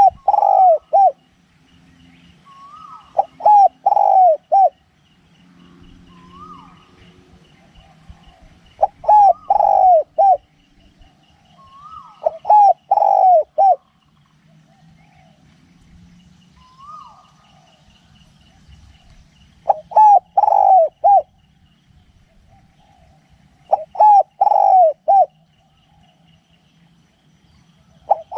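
Spotted dove cooing: a phrase of three or four quick coos repeated six times, a few seconds apart. A faint rapid ticking call runs behind it.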